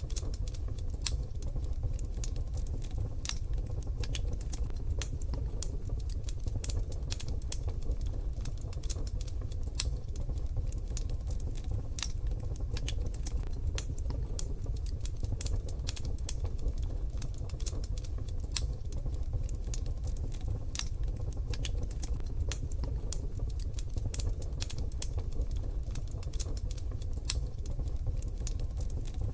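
Wood fire crackling in a wood-burning stove, with dense, irregular sharp pops and snaps over a steady low rumble.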